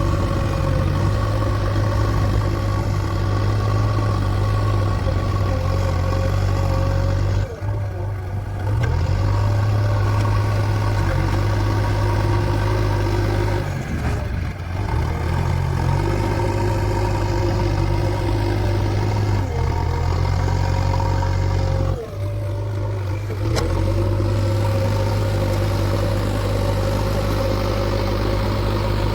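JCB 3DX backhoe loader's diesel engine running steadily, with brief drops in level about 8, 14 and 22 seconds in.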